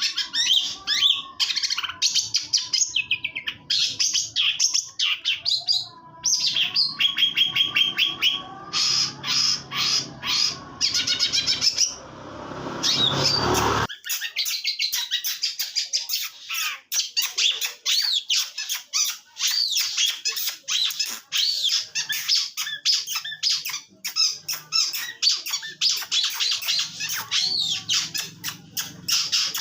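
Long-tailed shrike (cendet) singing a fast, continuous chattering song of rapid chirps and trills. A rush of hiss swells about eleven seconds in and cuts off sharply a few seconds later.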